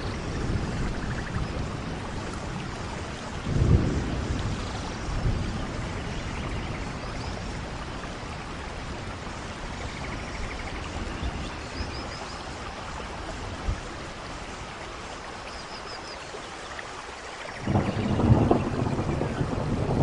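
Steady rain with thunder rumbling: a short rumble about four seconds in, then a longer, louder roll of thunder near the end.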